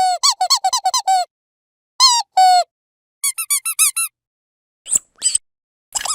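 Squeaky dog toy squeezed over and over: a quick run of short squeaks, two longer squeaks about two seconds in, then another fast run of short squeaks and a couple of breathier squeaks near the end.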